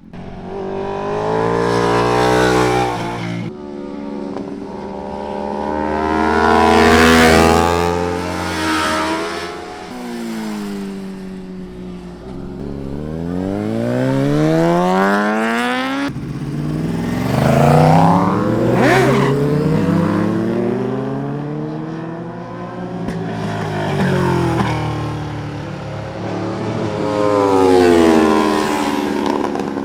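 Superbike engine revving hard as it accelerates, with abrupt drops in pitch at gear changes, then falling away as it slows. The climbs and drops repeat several times.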